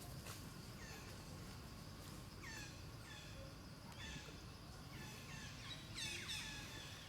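Series of short, high-pitched calls, each falling in pitch, coming in quick clusters about once a second from an animal, a monkey or a bird.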